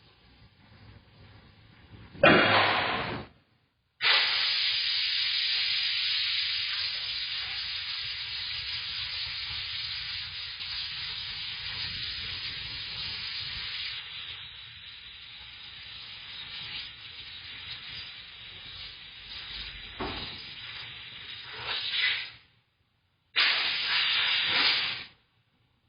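Compressed air hissing as a tyre is inflated on a tyre-changing machine. A short loud blast comes about two seconds in, then a long steady hiss that slowly weakens, and another short blast near the end.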